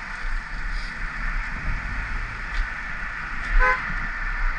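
A short vehicle horn toot about three and a half seconds in, over steady road noise.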